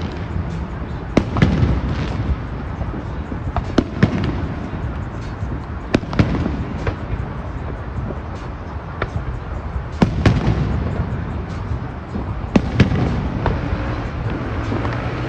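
Aerial fireworks display: sharp bangs of shells bursting every second or two at irregular intervals, over a continuous low rumble of booms and echoes.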